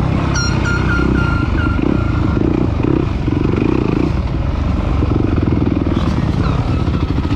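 Off-road dirt bike engine running hard, revving up and down repeatedly. A string of short high-pitched chirps is heard during the first couple of seconds.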